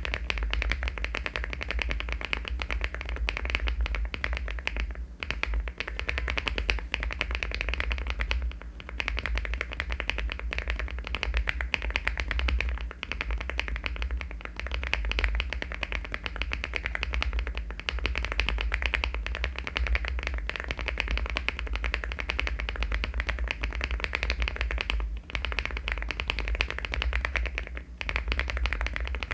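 Fast, continuous typing on a LEOBOG Hi75 aluminium mechanical keyboard fitted with HMX switches and Cherry-profile keycaps, the keystrokes running together with a few brief pauses. A steady low hum lies underneath.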